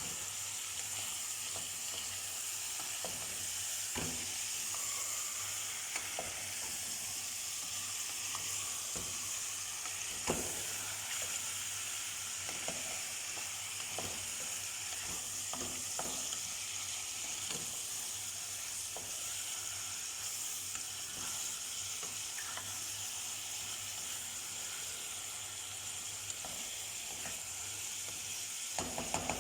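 Food frying in a pan with a steady sizzle, broken by scattered clicks of a utensil against the pan as it is stirred, with a quick cluster of clicks near the end.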